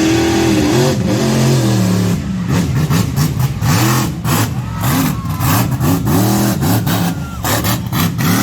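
Monster truck engine revving, its pitch climbing and dropping over and over.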